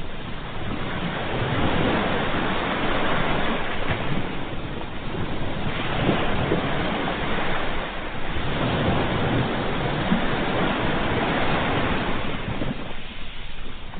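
Ocean waves breaking and washing on a shore, a steady surf rush that swells and eases every few seconds, with a lull near the end.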